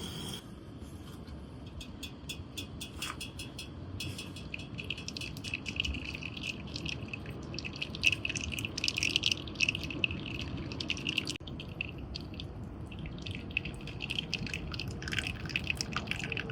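Liquid bubbling and dripping, with many small quick clicks and pops over a low steady rush, busiest about halfway through.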